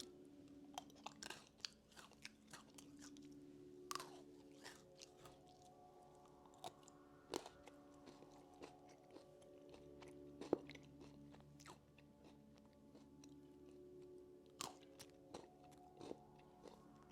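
Faint crunching and chewing of a crunchy, pretzel-like banana-flavoured snack, with scattered sharp crunches. Quiet background music runs underneath.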